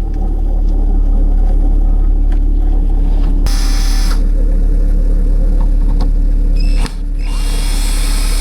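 Toyota Carina ED with its in-tank Masuma MPU-105 fuel pump running, a loud steady low hum: the pump noise the owner is chasing and suspects comes from the pump's strainer touching the bottom of the tank. Two short rustling hisses come over it, one around the middle and one near the end, and the hum dips for a moment just before the second.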